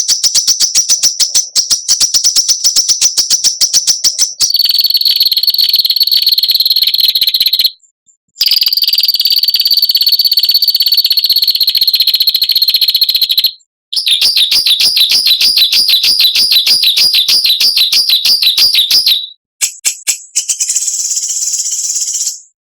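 Songbird's rapid, harsh rattling trills (besetan), high-pitched, in several long phrases of a few seconds each. The phrases start and stop abruptly with short gaps between them, as in an edited song-training (masteran) track.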